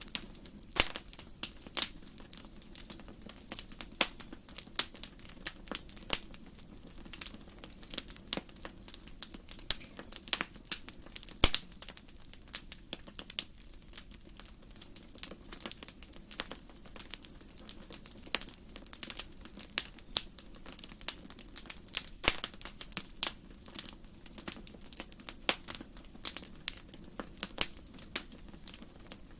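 Wood fire in a fireplace crackling: irregular sharp pops and snaps, often several a second, over a soft steady hiss.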